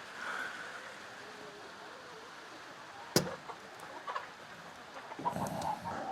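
Chickens clucking faintly, with one sharp click about three seconds in and a short flurry of scuffling clucks near the end.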